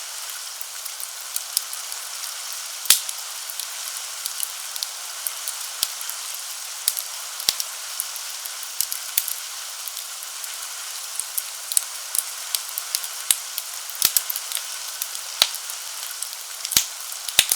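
Wood fire crackling in a fireplace: irregular sharp pops and snaps over a steady hiss, mixed with steady rain.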